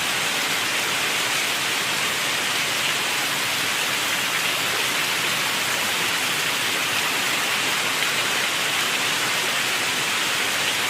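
Steady, even rain falling hard, with no let-up or separate drops standing out.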